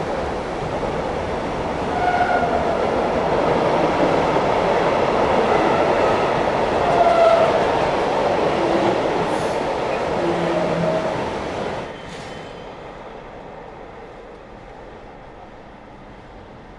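A train passing close by, with loud rolling noise and brief squeals from the wheels. About twelve seconds in the noise drops sharply, leaving a quieter rumble that fades away.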